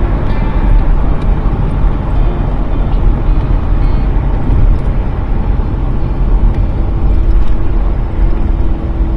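Chevrolet Astro van driving at road speed, heard from inside the cabin: a steady heavy low rumble of tyre, engine and wind noise.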